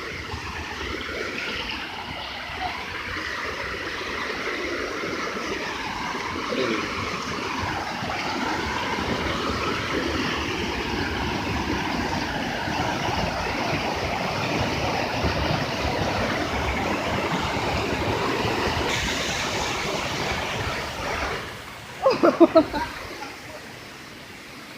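Rushing water of a stream or waterfall, a steady hiss that grows slowly louder, then drops away sharply near the end. Just after the drop comes a brief loud pitched sound in a few short pulses.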